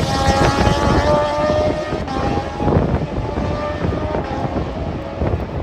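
Moto2 racing motorcycles, Triumph 765 cc three-cylinder engines, running at high revs as they pass on track. Several engine notes overlap, each gliding slowly in pitch over a steady rumble.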